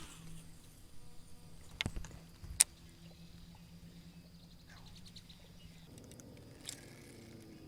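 A few sharp knocks and clicks of gear being handled on a kayak, the loudest about two and a half seconds in, over a faint steady hum that stops about six seconds in.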